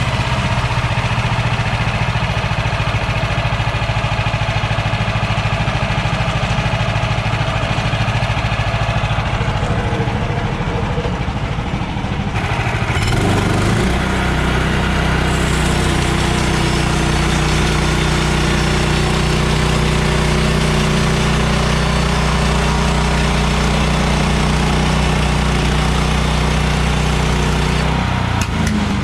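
Small gas engine of a portable band sawmill running steadily. Its note changes about 13 seconds in and then holds steady again.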